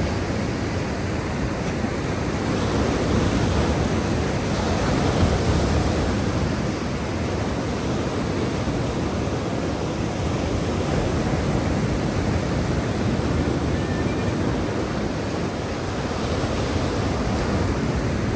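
Black Sea waves washing in a steady, continuous surf, swelling slightly a few seconds in.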